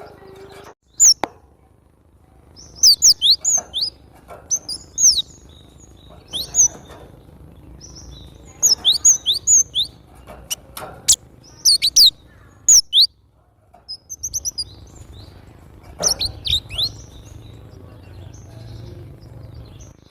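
Cinereous tit (glatik batu) singing: short bursts of sharp, quickly sweeping high chirps, repeated in phrases with brief pauses between them, over a faint low hum.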